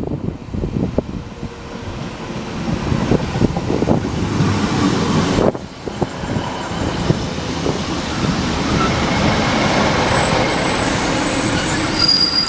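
Train running through a railway station, a loud rumble that builds over the first few seconds, with a thin high-pitched whine near the end.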